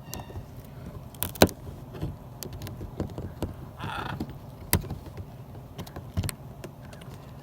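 A macaw's beak clicking and knocking on a hard garden hose attachment as it chews it, in irregular sharp knocks, the loudest about a second and a half in. A short squawk about four seconds in.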